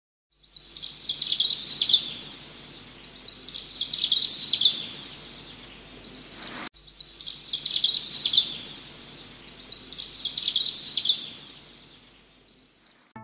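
Birdsong: a bird repeating a high chirping phrase about every two and a half seconds over a faint steady background hiss. The stretch cuts off abruptly about seven seconds in and then plays again, a looped ambience track.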